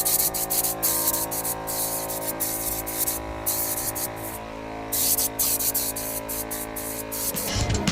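Spray paint hissing in on-off bursts while a part is coated, over background music holding a sustained chord.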